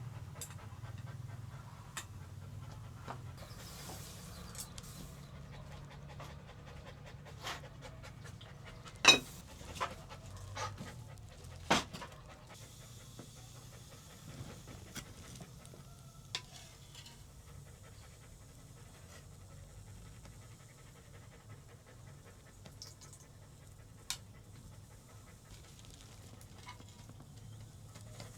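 A Dalmatian panting steadily, with a few sharp clicks scattered through it, the loudest about nine and twelve seconds in.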